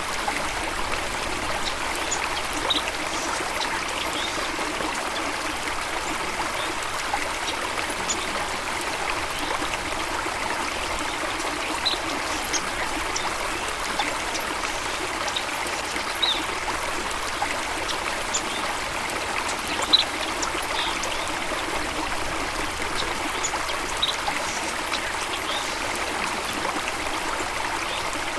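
Stream water running steadily with a continuous rushing and trickling sound, with a few short high-pitched blips scattered through.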